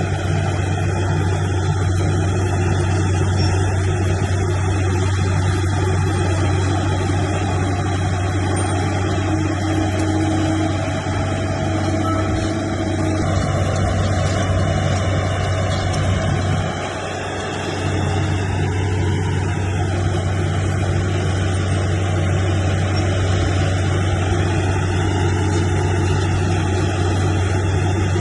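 Heavy diesel engine of earthmoving machinery running at a steady low drone, with a brief dip in level a little past halfway.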